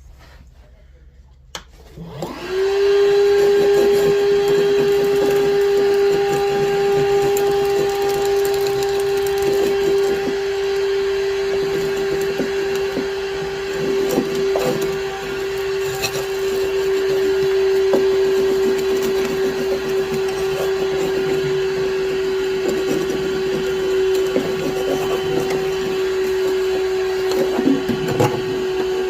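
A power tool cutting into plywood to enlarge a return-air opening: it starts about two seconds in and runs at a steady, high pitch, with irregular crackling from the wood.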